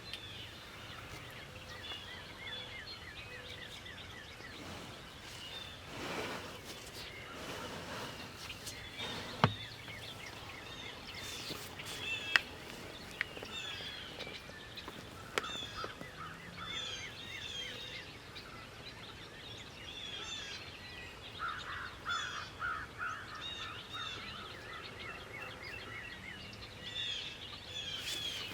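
Wild birds calling in spring woods: many short songbird chirps and trills throughout, with a run of quick repeated notes about three-quarters of the way in. Three sharp clicks a few seconds apart near the middle.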